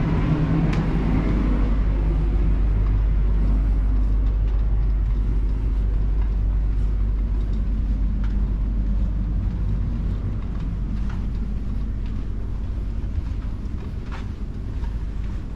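Heavy engine running with a steady low rumble and a few faint clicks over it, easing slightly about ten seconds in.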